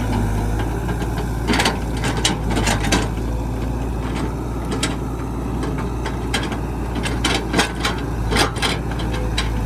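Excavator engine running steadily, with a run of sharp clanks and knocks from the working machine, grouped around two seconds in and again in the second half.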